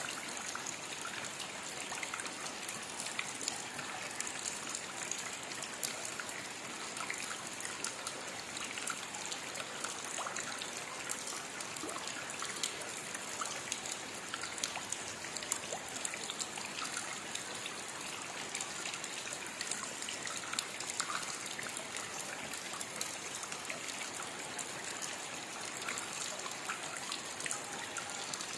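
Steady rain falling, with a hiss and many close individual drops ticking and pattering throughout.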